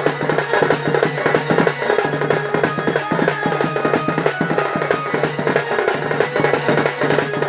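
Drum-led Sambalpuri folk music for a danda dance: fast, dense drumming over a steady, held low tone.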